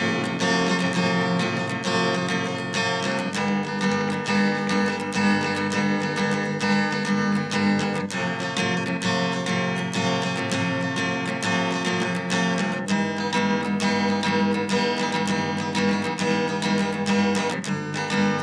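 Background music of strummed acoustic guitar, with chord changes every few seconds.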